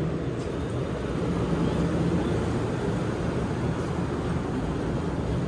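Keio Line electric commuter train pulling out of the platform, its wheels and motors making a steady running noise as the cars pass close by.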